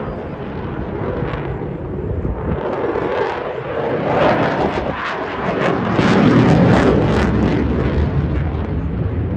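Eurofighter Typhoon's twin jet engines roaring as the fighter makes a display pass, growing louder to a peak about six to seven seconds in, with a crackling edge at its loudest.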